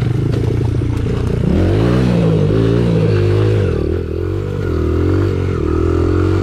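Four-stroke single-cylinder dirt bike engine running. It holds steady at first, then is revved up and down several times from about a second and a half in.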